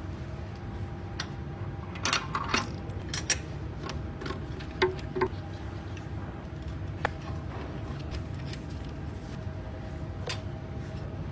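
Metal tools and parts clinking and clicking during hand assembly of a Mercedes-AMG V8 engine, a dozen or so separate hits, most of them in the first half. A steady low hum runs underneath.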